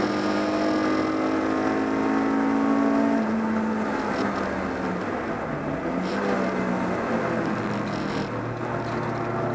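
In-cabin sound of a BMW 318is race car's 1.8-litre four-cylinder engine running hard at steady revs. About three seconds in the revs drop and the sound turns rougher as the car slows into a corner, then the engine pulls up again.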